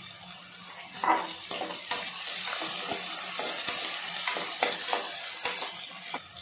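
Chopped onions and garlic sizzling in hot oil in an aluminium pressure cooker, stirred with a perforated metal spatula that scrapes and knocks against the pot. The sizzle grows louder from about a second in, with the loudest knock at that point.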